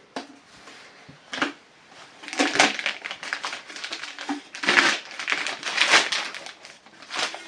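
Factory plastic film wrapping crinkling and tearing in irregular bursts as it is pulled off new stove parts, loudest in the middle of the stretch.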